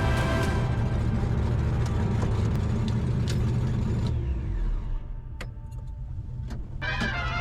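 Drag-racing truck engine running hard at full throttle down the strip, then backing off about four seconds in as the run ends.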